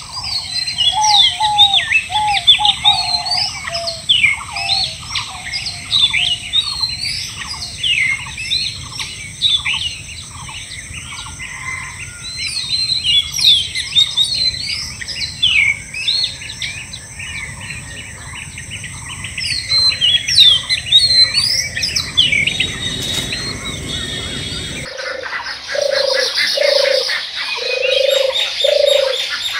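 Several birds chirping and twittering in quick, rising and falling calls over a steady high tone. About 25 s in, this changes abruptly to a lower call repeated about twice a second, with other chirps above it.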